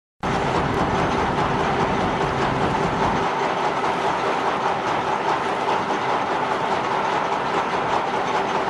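Heavy machinery running steadily, a loud continuous mechanical din with a constant hum in it, cutting in abruptly just as the sound begins.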